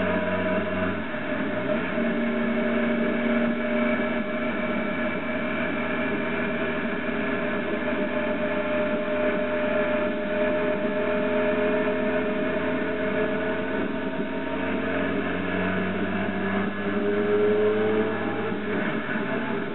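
Motorcycle engine running steadily under way, its pitch drifting slightly and rising a little about three-quarters of the way through.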